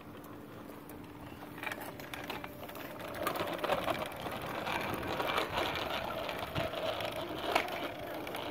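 Bicycle on the move: a fast mechanical rattling tick with tyre noise, growing louder about three seconds in.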